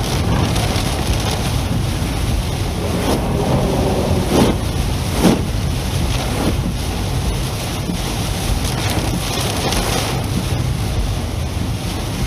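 Car driving through a torrential downpour: a steady, loud rush of rain and tyre spray, with brief louder surges about four and five seconds in.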